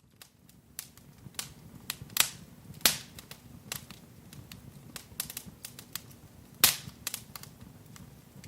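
Wood fire crackling in a fireplace: irregular snaps and pops over a low, steady rumble, with a few louder cracks about two, three and six and a half seconds in.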